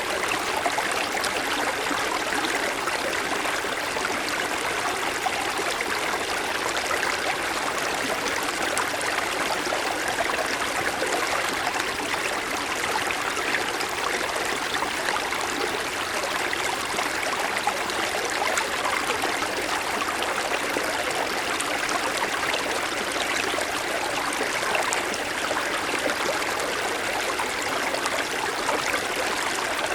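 Mountain stream flowing over snow-covered stones, a steady babbling and splashing rush of water.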